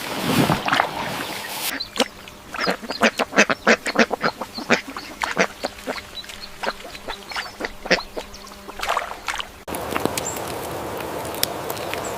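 Ducks quacking: a rapid, uneven series of short, sharp quacks for about eight seconds in the middle. Before it there is a stretch of hissy noise, and after an abrupt cut there is a steady noisy background with a few faint clicks.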